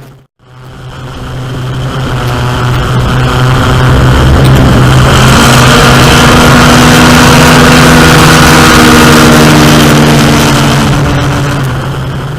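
Racing airboat running at full power: its aircraft-style engine and large propeller make a steady, loud engine note that grows louder, is loudest in the middle, then fades.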